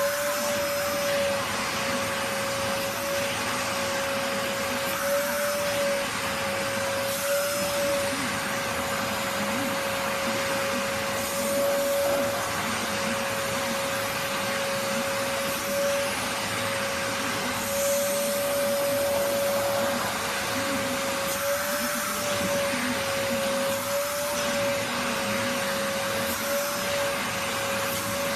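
Vacuum cleaner running steadily while being run over a cat's fur, its motor note wavering slightly now and then.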